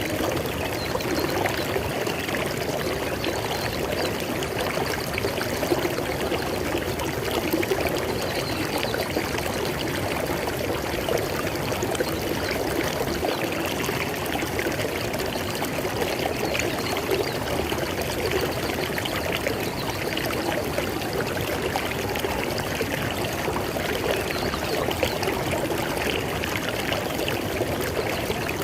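River water flowing steadily over rocks, a continuous rushing and splashing.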